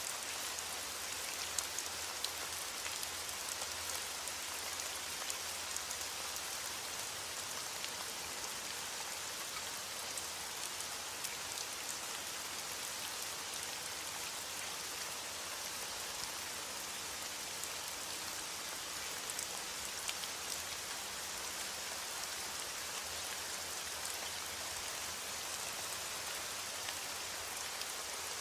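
Heavy rain falling steadily on a window pane, an even hiss with scattered light ticks.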